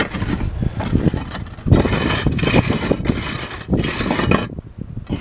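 Footsteps on a tile roof, the loose, wind-damaged tiles shifting and clacking against each other underfoot, with wind rumbling on the microphone. The clatter is heaviest in the middle and drops away briefly near the end.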